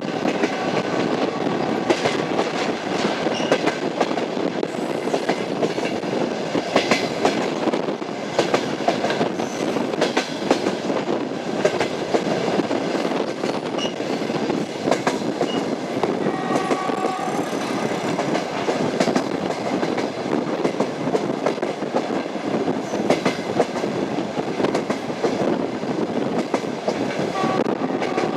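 Train running on the rails: wheels knocking over the rail joints against a steady rumble of the moving railway car.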